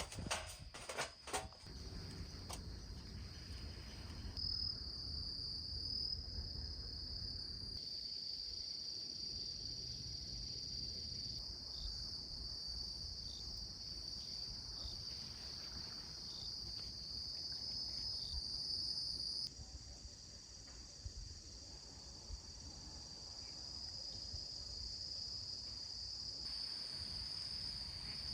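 Insects chirping in a steady, high-pitched drone, with a few knocks in the first second or two. The drone gets quieter about twenty seconds in and picks up again near the end.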